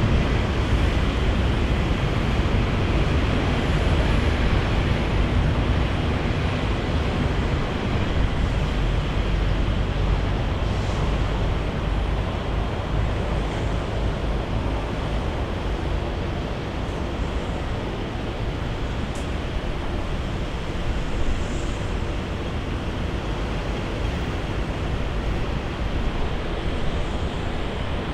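Jet airliner engines roaring: a steady low rumble that slowly fades.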